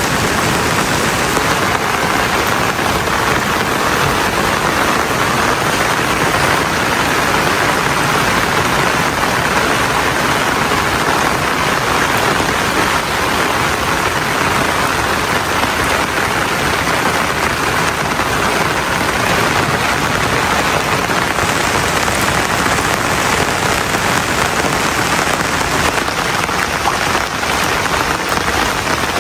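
Steady heavy rain falling, an even dense hiss of rain on surfaces.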